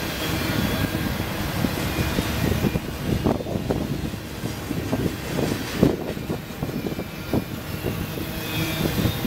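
Double-stack intermodal container cars rolling past: a steady rumble of steel wheels on the rails, with irregular clanks and knocks from the cars, the loudest about six seconds in.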